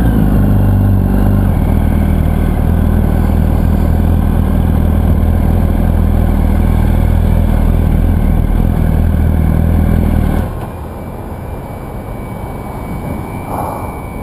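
Yamaha R1 sport bike's inline-four engine running under way, its pitch rising briefly at the start, then steady. About ten seconds in it drops off abruptly, leaving a quieter, even rushing noise.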